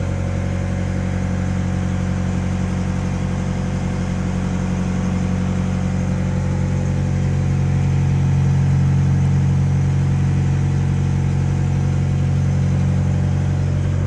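A fishing boat's engine running steadily, with a deep, even hum that swells slightly midway, while rain falls.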